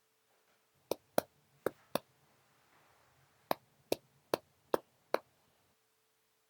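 Sharp knocks or taps: four in quick succession, a pause, then five more, over a faint steady hum.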